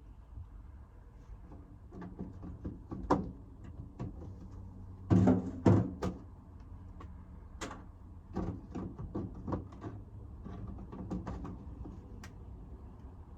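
Irregular knocks and clicks of things being handled, with two louder thumps about five to six seconds in.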